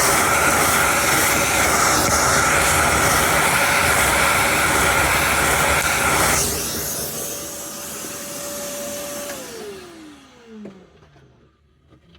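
Vacuum cleaner running steadily, then switched off a little past halfway, its motor winding down with a falling whine that fades out.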